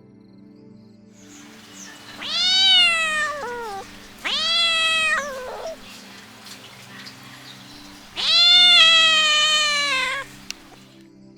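Kitten meowing three times, high-pitched calls that rise and then fall in pitch, the last one long, over soft background music.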